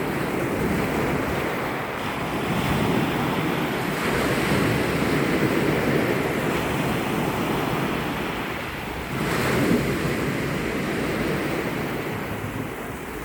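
Sea surf washing in continuously, swelling and easing, with a stronger surge about nine seconds in. Wind buffets the microphone underneath it.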